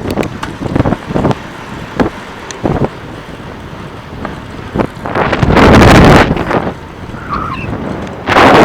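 Wind buffeting the microphone of a camera on a moving bicycle, with loud gusts about five seconds in and again near the end, and scattered short knocks early on as the bike rolls over the road.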